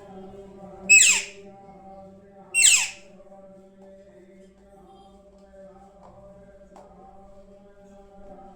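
Pet parrot giving two loud, harsh screeches about a second and a half apart, each a quick shriek falling in pitch.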